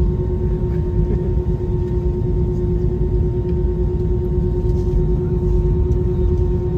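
Steady cabin noise inside an Airbus A320-family airliner: an even low rumble with a constant hum from the engines and air systems, holding steady without rising.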